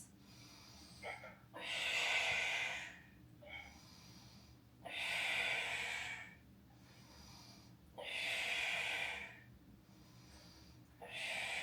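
A woman's forceful breaths during a Pilates ab exercise, four long exhales about three seconds apart with short, fainter inhales between, each exhale timed to a repetition.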